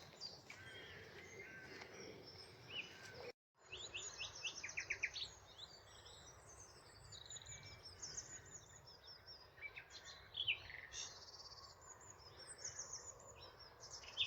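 Common nightingale singing: phrases of rapidly repeated high notes, one series after another, with a brief dead gap about three and a half seconds in.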